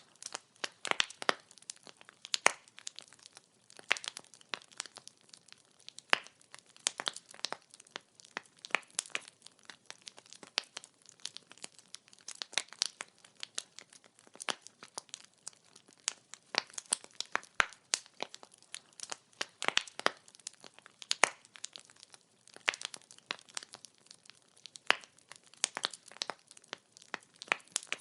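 Wood fire crackling: a dense, irregular run of sharp pops and snaps from burning firewood over a faint hiss.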